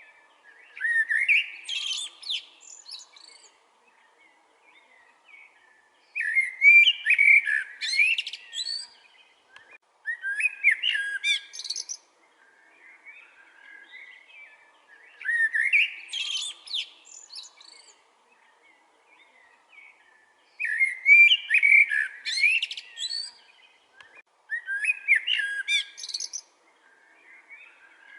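A songbird singing the same kind of rapid, warbling high-pitched phrase over and over, each lasting about two seconds and coming every four to five seconds, six times in all, with fainter chirps between the phrases.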